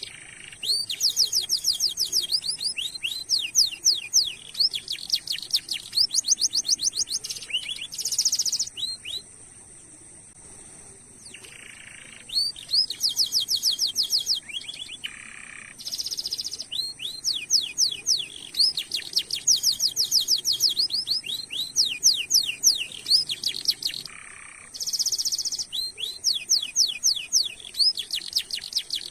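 Domestic canary singing: long rolls of rapid, repeated rising chirps, broken by short buzzy notes and a pause of a few seconds in the middle.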